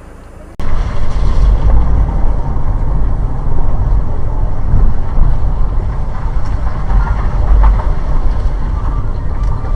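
Loud, steady low rumble of a moving vehicle, road and engine noise, that starts abruptly about half a second in.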